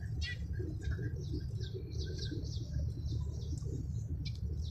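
Small birds chirping repeatedly with short high notes and quick sweeping calls, over a steady low rumble.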